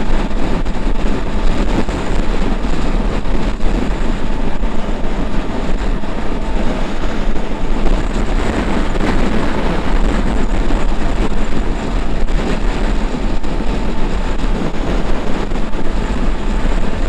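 Strong wind buffeting the microphone of a Honda XRE 300 motorcycle riding at highway speed, with the motorcycle's single-cylinder engine running steadily under the rush of wind.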